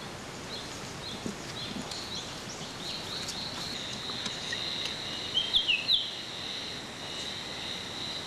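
Woodland birds calling: short high chirping notes, then a few loud quick gliding notes a little past the middle. Under them runs a steady high buzz that sets in about three seconds in.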